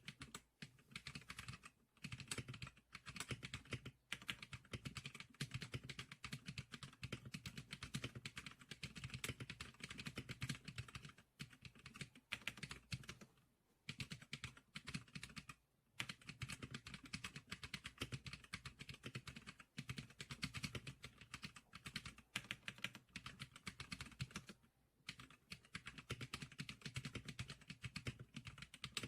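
Fast typing on the Zicklicker SPK100 keyboard: a dense, steady run of key clicks with brief pauses every few seconds.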